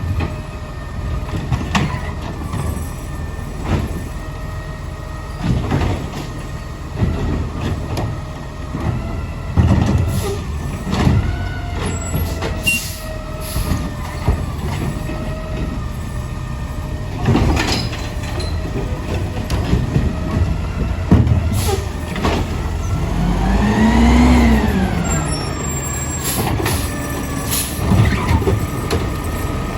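Garbage truck engine running, with repeated sharp knocks and bangs. Late on the engine revs up and back down once.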